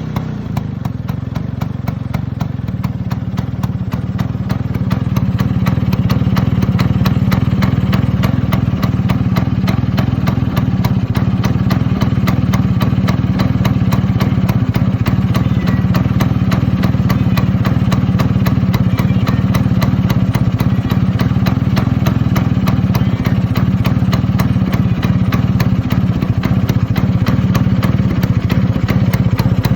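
Vespa PX's two-stroke single-cylinder engine idling through a Polini Big Box aftermarket exhaust. It grows louder over the first six seconds, then runs steadily.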